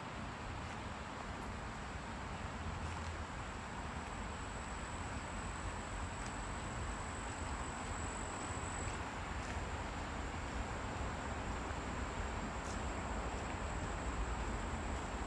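Steady hiss of a flowing stream over a low rumble of distant road traffic, with a continuous high, thin insect buzz.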